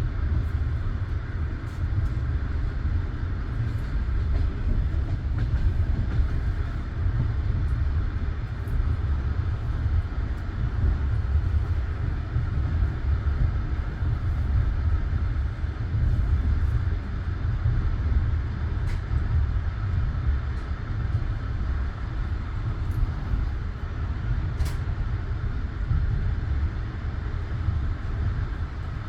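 Passenger train carriage running along the track, heard from inside the car: a steady low rumble of the wheels on the rails, with a few faint clicks.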